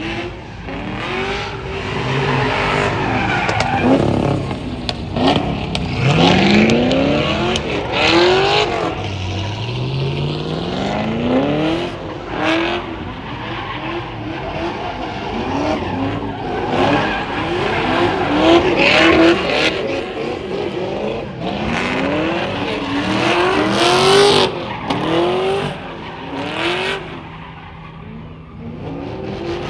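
Car engines revving hard again and again, their pitch climbing with each rev, while the tyres squeal and skid as cars spin donuts in a car pit.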